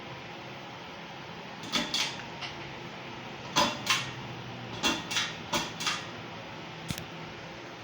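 Hunter ceiling fan running with a steady whoosh of moving air, over which come about ten sharp clicks, mostly in quick pairs, through the middle of the stretch.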